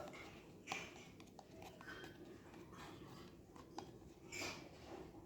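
Faint handling of small plastic toy pieces: scattered light clicks and scrapes, with a short rustle about a second in and a louder one near the end.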